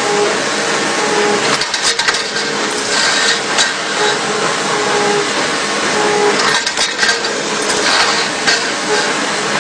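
CNC polygon lathe machining metal: a steady dense cutting noise with scattered sharp clicks and clinks. A brief low tone recurs about once a second.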